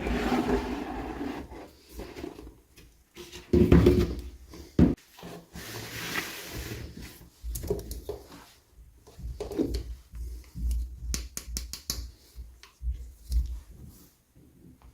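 Hands handling toy packaging: irregular rubbing, rustling and knocking, with a quick run of sharp clicks about eleven seconds in.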